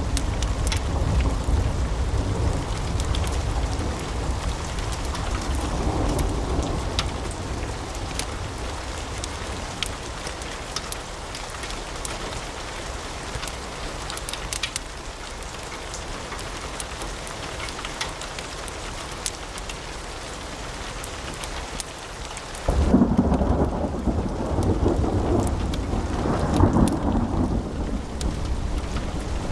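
Wood fire crackling in a fireplace: a steady wash with many sharp pops and snaps over a low rumble of the flames. About 23 seconds in the sound changes abruptly, growing louder and duller with fewer crisp pops.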